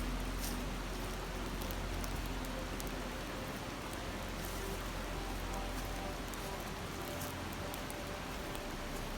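A river murmuring steadily, with a few faint crackles from a wood campfire.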